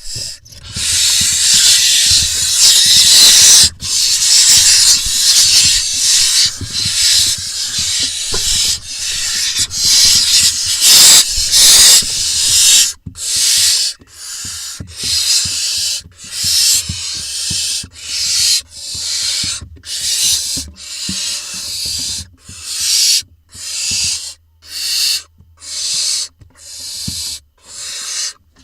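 Barn owl nestlings giving hissing begging calls. The hisses overlap in a dense run for about twelve seconds, then come singly, about one a second.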